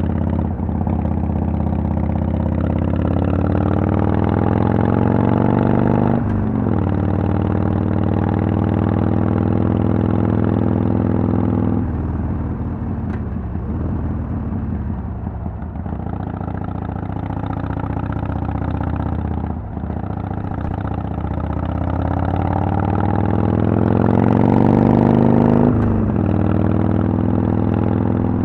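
2010 Harley-Davidson Sportster XL883L's 883 cc V-twin running through Vance & Hines Twin Slash pipes while ridden. It climbs in pitch under acceleration, with a sudden drop at an upshift about six seconds in. It eases off in the middle, then pulls up through the revs again and shifts near the end.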